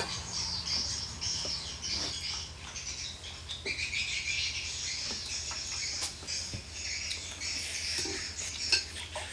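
Close-up eating sounds: wet chewing and lip smacking as fish and rice are eaten by hand, with a few light clicks of a spoon on a plate, over a steady low hum.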